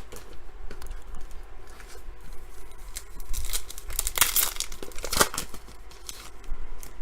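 A trading-card pack wrapper being torn open and crinkled, loudest in a rough tearing stretch about halfway through and a short rip just after.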